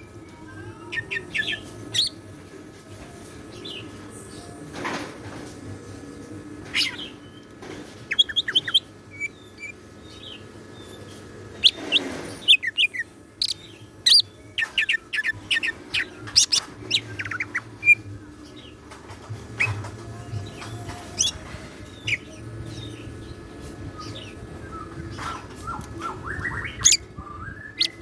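Green leafbird (cucak ijo) singing in bursts of quick high chirps and rapid trills, varied from phrase to phrase, with a couple of short thumps in between.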